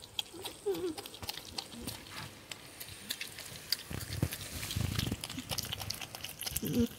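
Porcupine making its soft, wavering happy sounds while eating: two short calls, about a second in and near the end, over many small chewing clicks.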